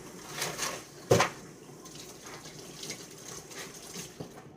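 Kitchen clatter: a few light knocks and clicks as a plate and food are handled, the loudest about a second in.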